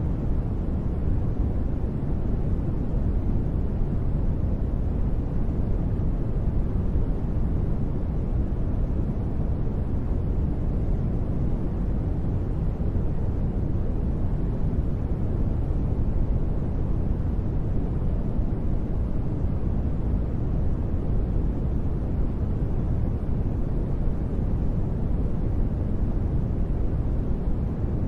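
Continuous synthetic sleep noise, steady and unchanging, dark and deep in tone with most of its weight in the low end, more like brown noise than bright hiss.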